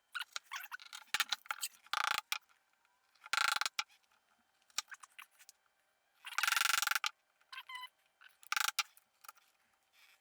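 Handsaw cutting into wood in short, separate strokes with pauses between them, as it saws dovetail pin cuts down to the baseline.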